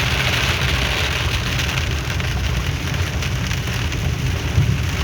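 Heavy rain pouring onto a moving car, over the steady low rumble of the car running along the road.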